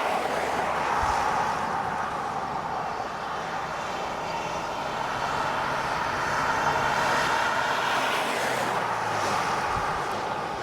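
A car driving, heard as steady rushing road and wind noise with a faint low engine hum under it.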